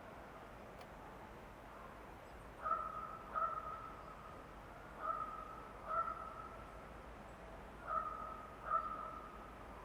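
A bird calling in pairs of short, steady-pitched notes: three pairs, about two and a half seconds apart, over a faint, steady forest background.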